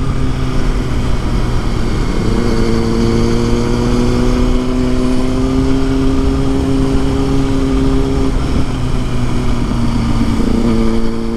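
Kawasaki ZX-6R inline-four sport bike engine running at a steady pitch while riding, over a constant low rumble. Its tone falls away about eight seconds in and comes back a couple of seconds later, a shift or change of throttle.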